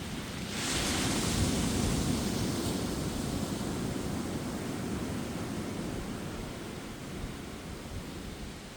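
Ocean waves on a beach: a wave breaks about half a second in with a rush of hissing foam, then washes out and slowly fades, over the low steady rumble of surf.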